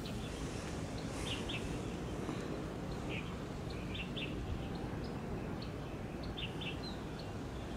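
Small birds chirping in short high notes, often in quick pairs, every second or so, over a steady low rumble of outdoor background noise.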